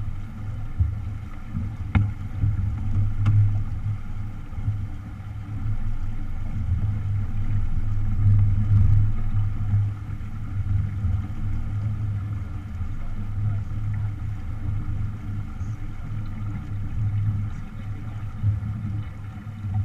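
Wind buffeting the microphone in a steady low rumble that swells and fades, over the wash of a small sailboat under sail in a strong breeze.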